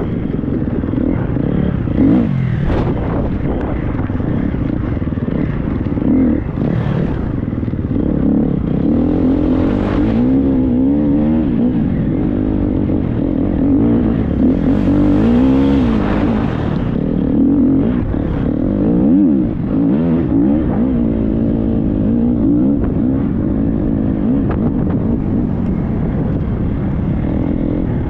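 Triumph 250 motocross bike's engine under way off-road, its pitch rising and falling over and over as the throttle is opened and closed.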